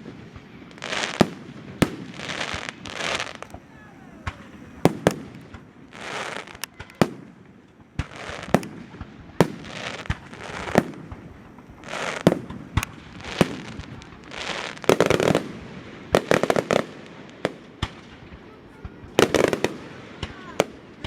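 Fireworks display: a run of sharp bangs, roughly one a second, many followed by crackling, hissing bursts. The bursts come thicker in two clusters in the latter half.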